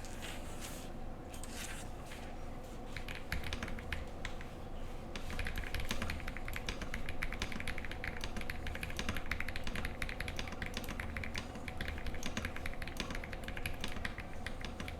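Typing on a Monka 3067 mechanical keyboard with factory-prelubed KTT Coconut Latte switches and Cherry Retro keycaps. The keystrokes are spaced out at first, then turn into fast, continuous typing from about five seconds in.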